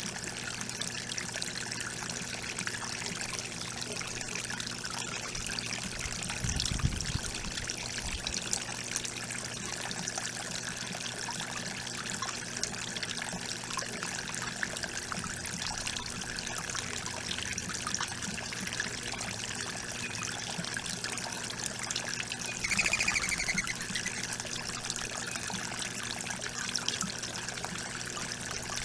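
Water trickling steadily, with a brief low thump about a quarter of the way in and a short higher twittering sound about three quarters of the way in.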